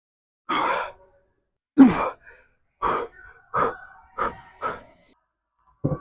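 A man breathing hard after a heavy dumbbell bench press set: about six forceful exhales, one of them a voiced grunt.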